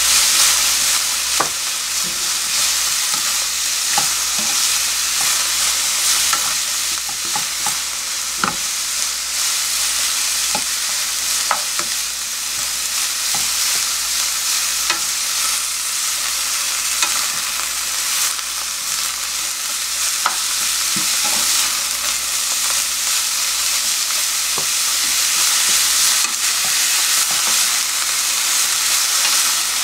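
Julienned burdock root sizzling in hot oil in a frying pan as a wooden spatula stirs and tosses it, with scattered light knocks of the spatula against the pan.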